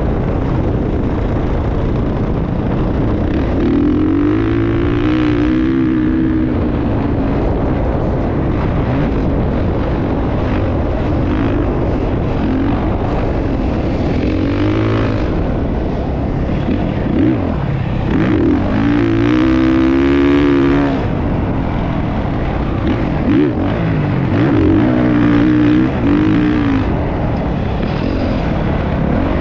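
Motocross dirt bike engines revving, their pitch rising and falling several times over a steady rumble.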